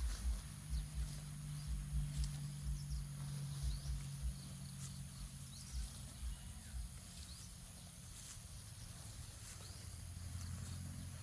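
Outdoor rural ambience: a steady high insect-like whine with small chirps, and soft irregular low thuds through the first half or so.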